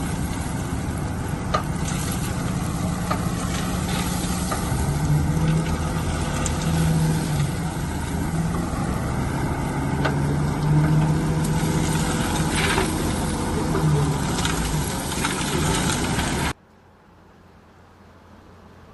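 A heavy diesel construction machine's engine running, its pitch rising and falling with load, with scattered clanks and knocks. The sound cuts off suddenly near the end, leaving a faint hiss.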